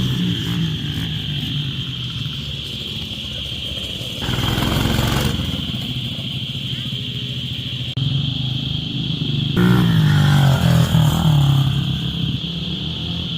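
Small vehicle engine running, its pitch rising and falling as it is revved, loudest a little past two-thirds of the way in, with a steady high-pitched whine throughout.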